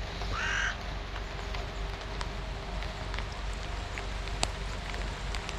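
Steady rain hiss with scattered sharp drip ticks. A crow's last caw ends within the first second.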